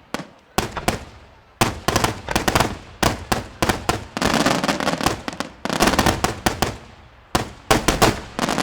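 Fireworks finale: dense volleys of loud bangs from exploding shells, coming in rapid clusters separated by brief pauses, then dying away at the end.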